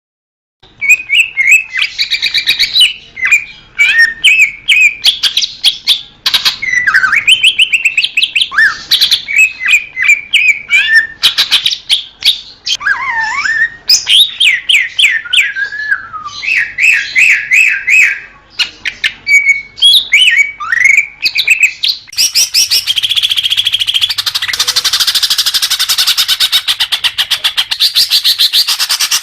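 Cucak hijau (green leafbird) singing: a loud, varied song of quick whistles, slurred glides and chattering notes, running into a dense, continuous fast trill for the last several seconds.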